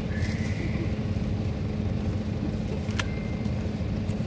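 Steady low rumble of a motor vehicle's engine running, with a short sharp click about three seconds in.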